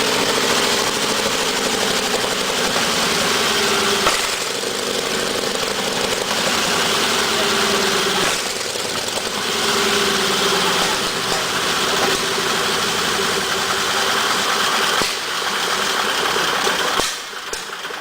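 Sherman tank's Continental nine-cylinder radial engine running, its speed shifting up and down a few times; the sound drops away sharply near the end.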